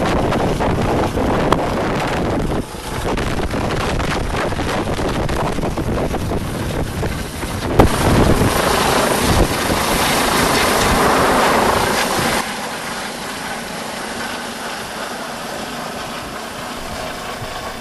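Air ambulance helicopter's rotors and engine running loud as it lifts off, mixed with wind noise; the sound drops abruptly to a quieter level about twelve seconds in.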